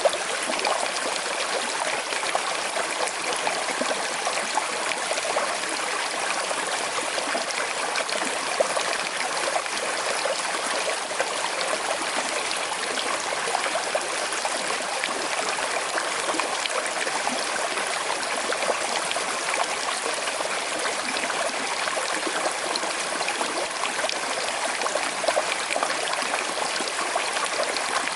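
Small river flowing with a slight current, a steady babble and trickle of water over stones.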